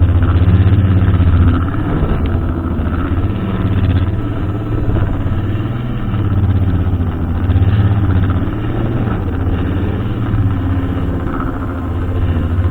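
Petrol brushcutter engine running steadily, its loudness swelling and easing every few seconds as it cuts.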